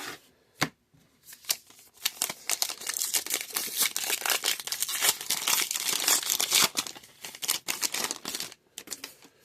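A trading card pack wrapper being torn open and crinkled: a dense crackling rustle from about two seconds in until near the end, after a single click.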